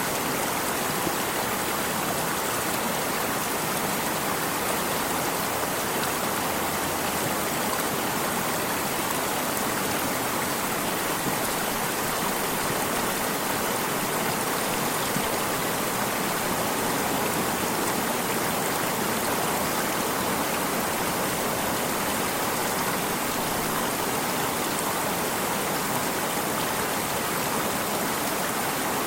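A stream of water running steadily, an even rushing noise.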